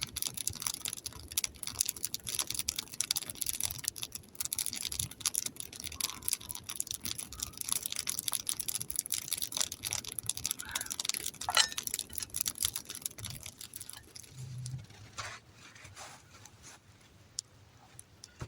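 Wood campfire crackling with a dense run of sharp pops and snaps that thins out after about fourteen seconds.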